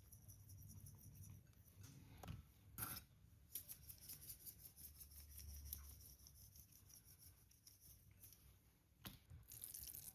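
Faint kitchen food-preparation sounds: scattered light clicks, taps and rubbing, with a few sharper short clicks about three seconds in and near the end.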